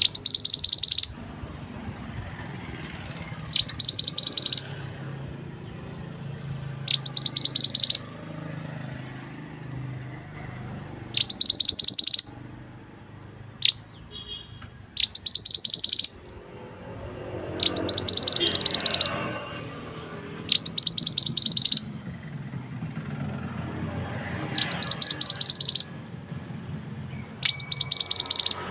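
A songbird known in Indonesia as the mantenan singing high, rapid trills about a second long, repeated every three to four seconds: the kind of recording used as 'masteran' to tutor caged songbirds.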